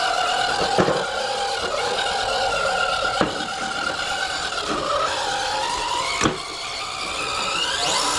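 Scale RC trail truck's electric motor and gearbox whining steadily as it crawls over rocks, the pitch dipping and then rising sharply near the end with the throttle. A few sharp knocks are heard as the truck bumps on the rocks.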